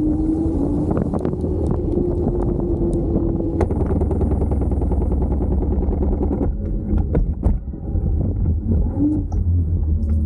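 Kaabo Wolf King GT Pro electric scooter riding along: heavy wind and road rumble with a steady, slightly wavering whine. About two-thirds of the way through the rush eases off and a few sharp clicks and rattles come through.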